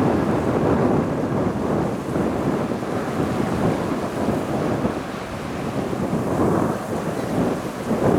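Low, steady rumble of a jet airliner's engines passing over the airport, with wind buffeting the microphone.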